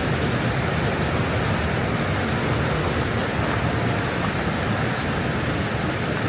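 Steady rush of fast-flowing water, loud and even throughout.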